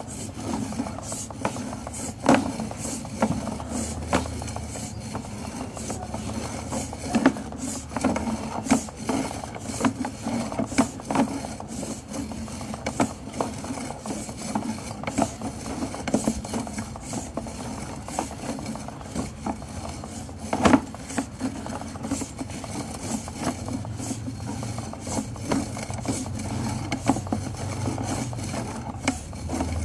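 Sewer inspection camera being pushed along a sewer line, its push cable and camera head scraping and rubbing inside the pipe with many irregular clicks and knocks.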